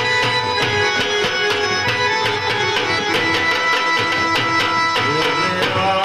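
Instrumental passage of Gujarati garba music: an electronic keyboard (organ) playing a melody in held notes over fast, even dhol drumming.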